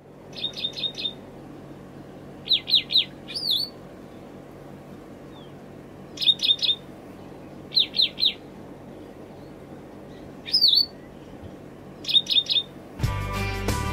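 Small songbird calling: short bursts of three or four quick chirps, repeated every couple of seconds, with an occasional single swooping whistle between them. Music comes in about a second before the end.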